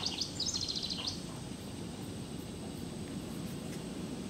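A small bird singing a quick trill of rapid, repeated high chirps for about the first second, then only a steady low background hum of the outdoors.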